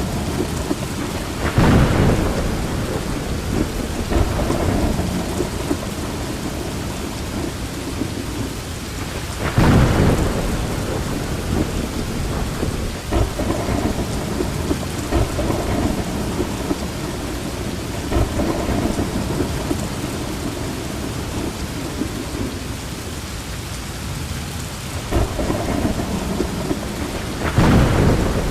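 Steady heavy rain with rolling thunder. The loudest rumbles swell about two seconds in, around ten seconds in and near the end.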